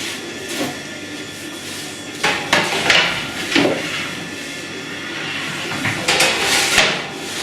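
Bakery work: hard objects knocking, clattering and scraping, in a cluster of knocks about two seconds in and another near the end.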